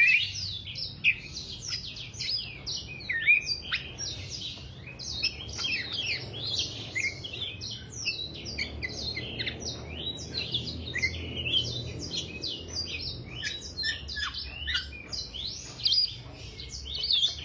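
Black-naped oriole (kepodang) singing nonstop in a rapid, dense chatter of short, quick, mostly falling high notes, the frenzied 'teler' singing that bird keepers play as a training recording.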